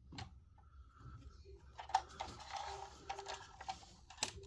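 Faint scattered clicks and a few light knocks as a 1/18 scale diecast model car is handled and turned around.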